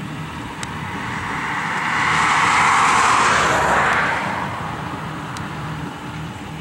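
A car passing by close at hand, its tyre and engine noise swelling and then fading, loudest about three seconds in.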